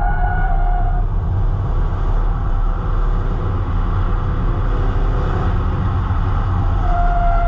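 Stock car engines running on the oval, a loud steady rumble. A steady high tone heard at the start drops out about a second in and returns near the end.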